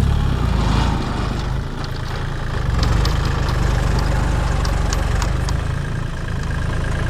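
Large diesel engine running steadily at low revs, with faint scattered clicks over it.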